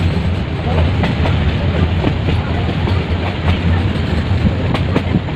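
Metre-gauge passenger train running along the track: a steady low rumble with the clatter and clicks of the wheels on the rails.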